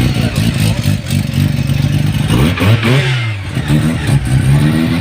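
A car engine running steadily, revved up once about two and a half seconds in, then dropping back to a steady note.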